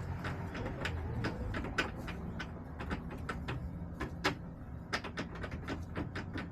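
Chickens pecking and moving about on hard plastic surfaces: irregular sharp taps and clicks, several a second, a few louder knocks among them, over a low steady hum.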